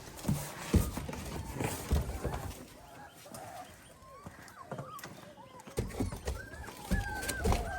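Young puppies whining and crying in short, high, arching cries that crowd together in the last couple of seconds, with a few knocks and thumps earlier on.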